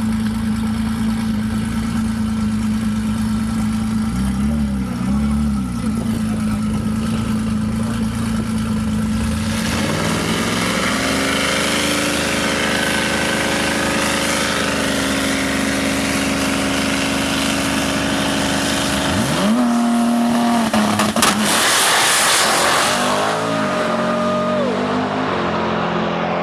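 Drag-racing cars' engines idling steadily at the line, then revving up about ten seconds in and holding high revs. A sharp rev rise near the end leads into the loudest stretch, a noisy full-throttle burst typical of a launch.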